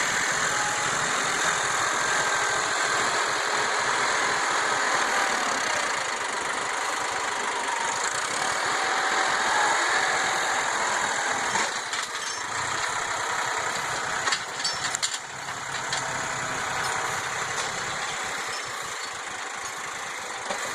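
A Ford tractor's freshly rebuilt engine running steadily, with a few short clanks a little past the middle.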